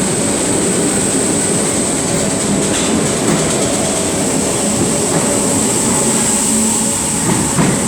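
Merseyrail Class 508 electric multiple unit pulling away from the platform, running loud and steady with its wheels clattering over the rails and a high steady whine.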